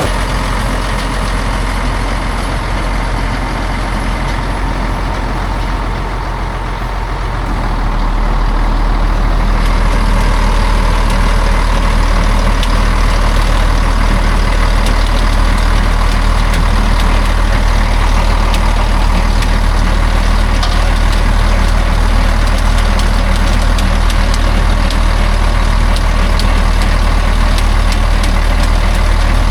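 Heavy truck engine running steadily at low revs. It grows louder about eight seconds in and holds at that level.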